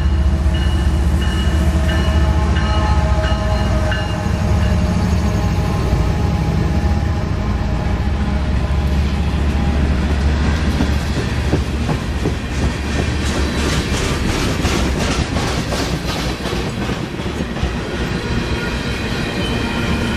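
Diesel-hauled freight train passing: the locomotive engines run with a deep steady drone, and past the middle the wheels of the railcars click over the rail joints in a quick, even rhythm.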